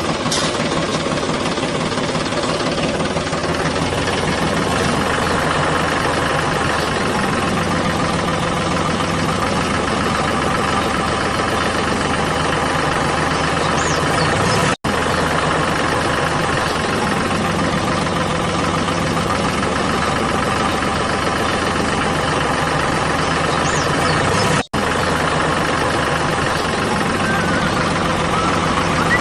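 An engine running steadily at an even pitch, with two split-second dropouts, about 15 s in and again near 25 s.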